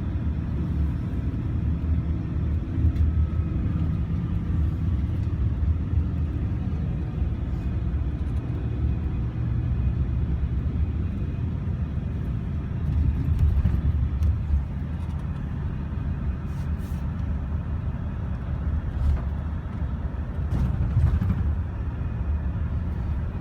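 Steady engine and road rumble of a moving vehicle, heard from inside the cabin, with a few faint ticks.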